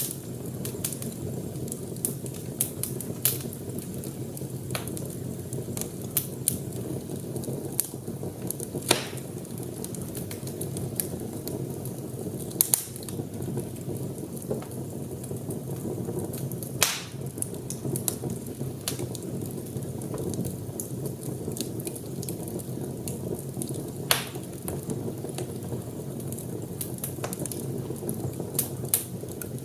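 Wood fire crackling in a fireplace: a steady low rush of flames with irregular sharp pops and snaps, a few louder pops standing out at scattered moments.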